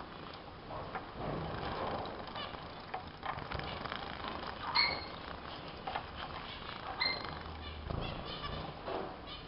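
Small pet finches bathing: wings fluttering and water splashing, with many small clicks. A short finch chirp sounds about five seconds in and again about seven seconds in.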